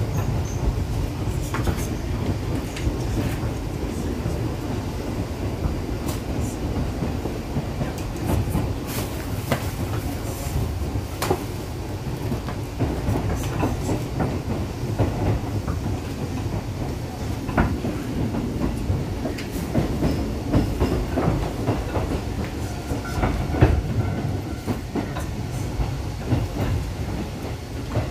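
Keisei 3500 series electric train running at speed: a steady low rumble with wheels clicking over rail joints at irregular intervals.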